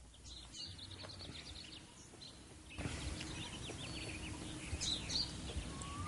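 Small birds chirping in many short, high calls over quiet outdoor background noise. The background steps up suddenly about three seconds in.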